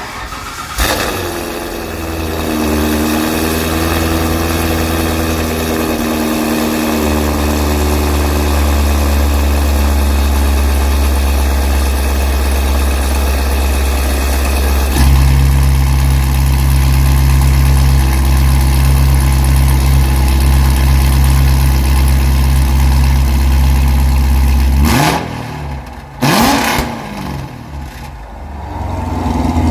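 Corvette engine starting about a second in, then running steadily with a deep low hum that shifts up in pitch partway through. Near the end it dips and sweeps in pitch twice before settling again.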